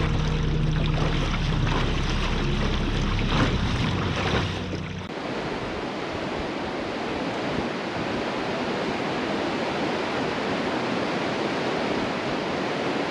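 A boat's motor running under way, with water splashing against the hull. About five seconds in, it cuts abruptly to a steady, even rushing noise like surf or wind.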